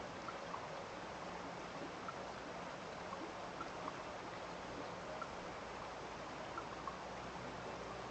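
Steady rush of a small stream of flowing water, with scattered small drips after rain.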